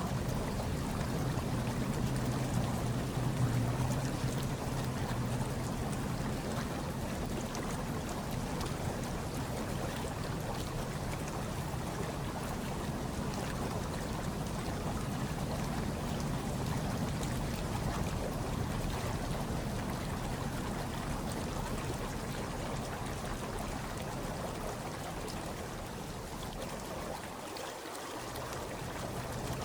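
Hot tub water churning and bubbling steadily, with a low hum underneath that dips briefly near the end.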